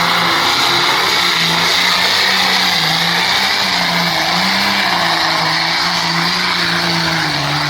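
Case IH MX 135 super stock pulling tractor's engine running hard under load, its pitch wavering up and down.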